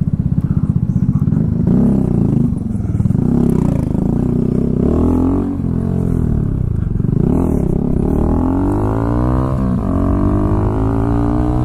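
Kawasaki Z125's single-cylinder engine through a home-built custom exhaust, revving up and down as the small motorcycle accelerates and shifts, with a long rising climb in pitch in the last few seconds.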